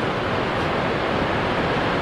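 Ocean surf breaking on rocks: a steady wash of churning water.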